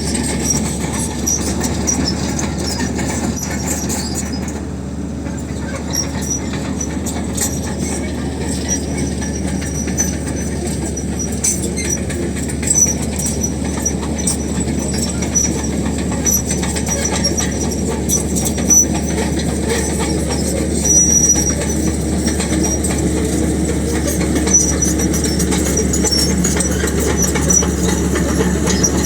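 Crawler bulldozer at work: the diesel engine's steady drone under the high squeal and clanking of its steel tracks, with a few louder clanks along the way.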